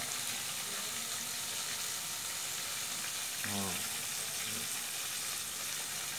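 Steady sizzle of food frying in hot oil in a pan.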